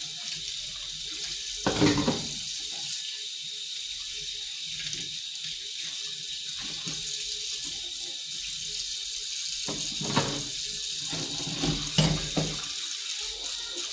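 Water running steadily from a tap into a sink, with a few bumps of things being handled in the sink about two seconds in and again around ten to twelve seconds.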